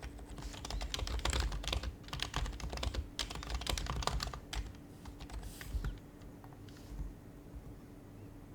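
Typing on an HHKB Professional Hybrid Type-S keyboard with its dampened Topre switches: a fast run of keystrokes for about four seconds, then a few scattered presses.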